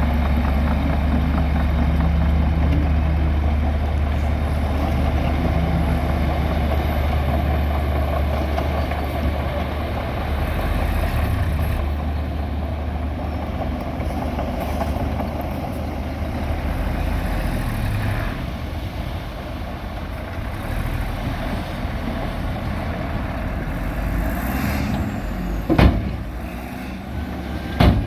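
Heavy diesel earthmoving machinery running steadily with a deep engine drone that eases a little partway through, and two sharp metallic clanks near the end.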